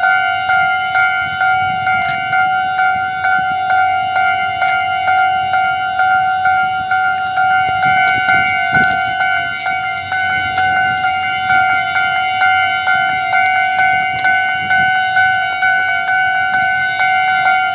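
Railway level-crossing warning bell ringing in an even, unbroken rhythm of about two strikes a second, each strike a bright ring of several fixed tones.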